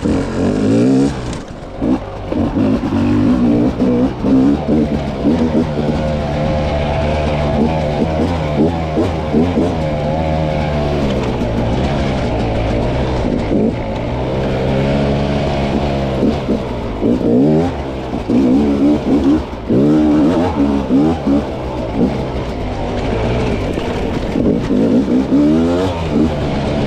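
300 cc two-stroke dirt bike engine revving up and down over and over as the throttle is blipped and rolled on, its pitch rising and falling every second or two, with a short drop in level about a second in.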